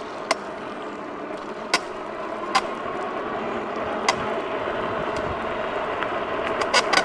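Jansno X50 electric bike riding along a rough path: a steady hum of motor and tyres that slowly grows louder, broken by sharp clunks every second or two, with a cluster near the end, from the noisy rear suspension shock.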